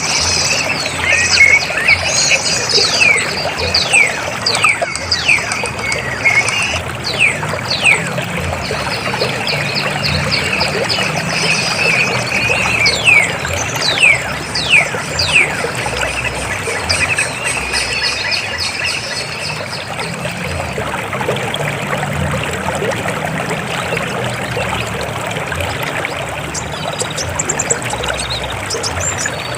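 River water flowing and splashing steadily, with a run of short, high whistles falling in pitch over the first half.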